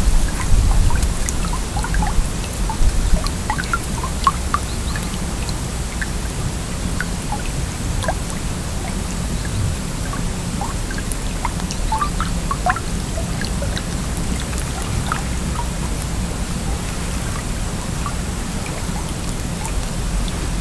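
Autumn stream flowing: a steady rush of water with many small splashes and drips scattered through it and a low rumble underneath, the rumble stronger in the first few seconds.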